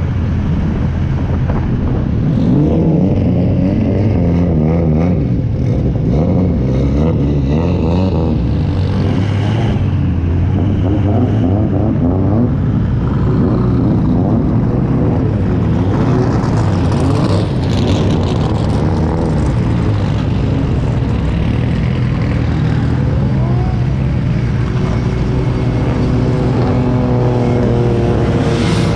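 Onboard sound of a drift car's engine driving slowly in a pack of other drift cars, its revs rising and falling throughout, with the other cars' engines mixed in.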